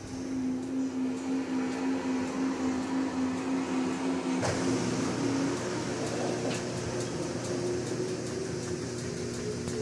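LG Titan 16 kg washing machine spinning: a steady motor hum with a pulsing rhythm. About halfway through there is a knock and the pitch shifts, and higher tones slowly rise near the end. This is the abnormal spin-cycle noise the machine makes.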